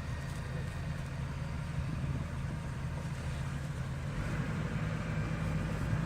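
Tractor diesel engine running steadily under load, with a low, even drone.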